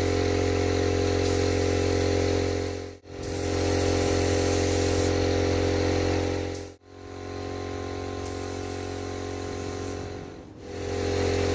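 HVLP paint spray gun hissing over the steady hum of the motor supplying its air, in several short stretches that cut off abruptly; the hiss grows brighter in spells as the trigger is held.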